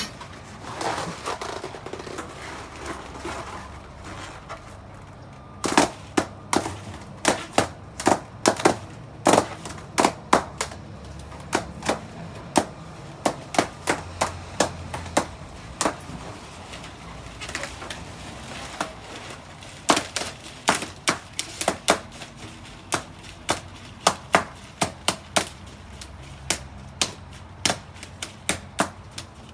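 Balloons bursting one after another, a rapid run of sharp pops at about one to three a second. The pops start about six seconds in and vary in loudness.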